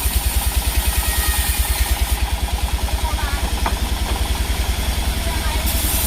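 An engine running steadily at idle, with an even, fast low thudding of about ten beats a second.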